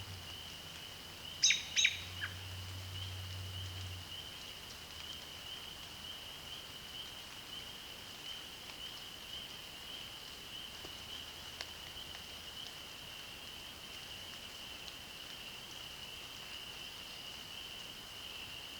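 A steady, high-pitched chorus of calling frogs or insects, with two sharp, loud bird chirps about a second and a half in.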